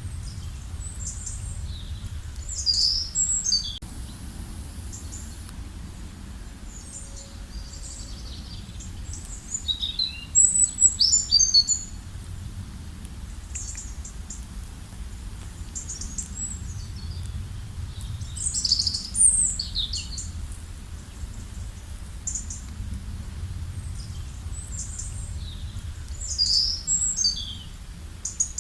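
Birds chirping and singing: quick high chirps and trills come in bursts about every eight seconds, the loudest about ten seconds in, with scattered single chirps between them. A steady low rumble of background noise runs underneath.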